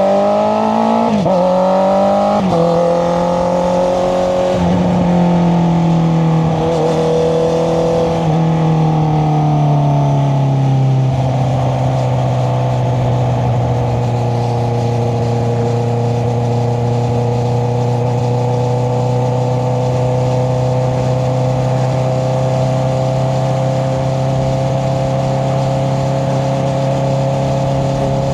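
Honda CBR650R's inline-four engine through an Akrapovic exhaust under way, with two quick upshifts in the first few seconds. Engine speed eases down about ten seconds in and then holds steady at cruise.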